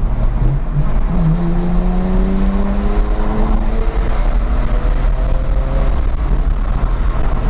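BMW 125i E82's naturally aspirated 3.0-litre straight-six accelerating under load, its pitch climbing steadily from about a second in, heard from inside the cabin over tyre and road noise.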